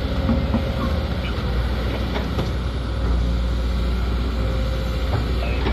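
Sumitomo SH210 excavator's diesel engine running steadily, a little louder from about three seconds in, with a few faint knocks over it.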